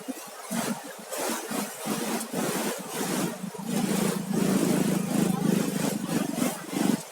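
A vehicle engine running steadily, growing louder about halfway through, over a constant rushing hiss of wind and surf.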